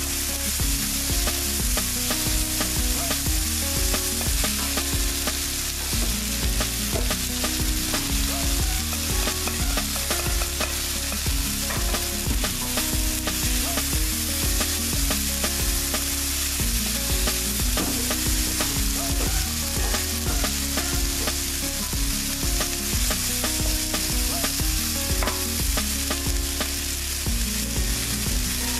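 Chopped onions and tomatoes sizzling in hot oil in a pan, stirred with a wooden spatula that scrapes and taps the pan many times.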